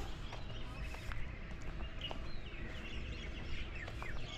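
Several small birds chirping, with short high calls scattered throughout, over a low rumbling outdoor background and a few faint footsteps on a dry path.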